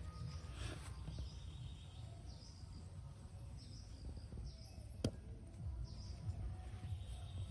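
Small birds chirping again and again over a steady low rumble, with one sharp click about five seconds in.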